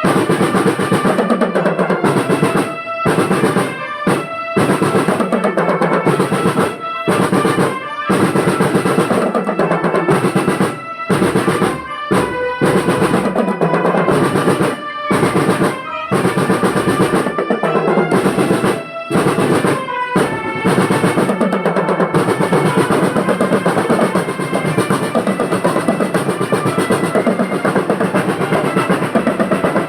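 School marching drum band playing: snare drum rolls and bass drums with held high melodic notes over them. For the first twenty seconds or so the band keeps stopping suddenly for a fraction of a second, then it plays on without breaks.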